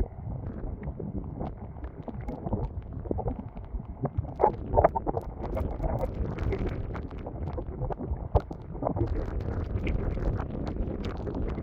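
Strong wind buffeting the microphone in gusts, with irregular clicks and rustles over it.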